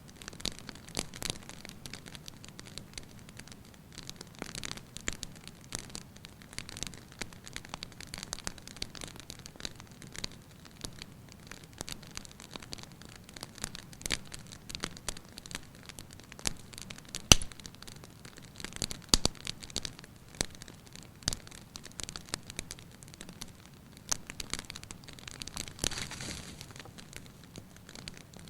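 Fire burning in a fireplace, crackling steadily with irregular sharp pops, the loudest about 17 seconds in.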